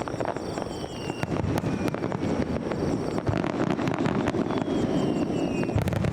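Aerial fireworks going off: continuous rumbling booms and crackling, with two faint falling whistles, the first about half a second in and the second near the end.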